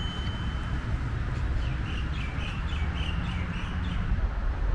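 A bird calling in a quick run of short calls for about a second and a half in the middle, over a steady low outdoor rumble. A bell sound effect rings out and fades in the first second.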